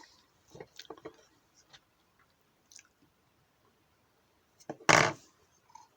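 Small engine parts being handled on the bench: a few light clicks and taps in the first second, then one short, loud knock or rush about five seconds in.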